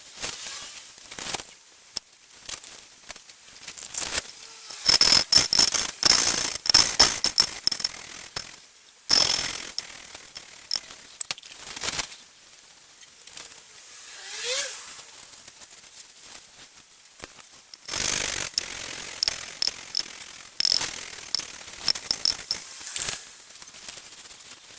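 Valves being lapped into the seats of a classic Mini 1293 race engine's cylinder head: the lapping tool is twisted rapidly back and forth, grinding each valve on its seat in fast gritty rasping, in three main spells with pauses between.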